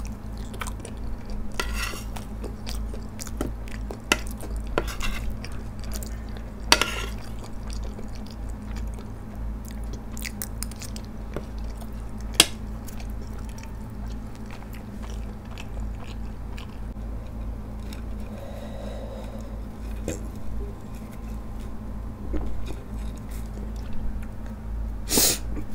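Close-miked chewing of soft wheat penne pasta, with wet mouth clicks and smacks throughout. A metal spoon clinks once sharply against the plate about halfway through. Near the end comes a brief, loud, crackly tear as a stuffed garlic bread is pulled apart by hand.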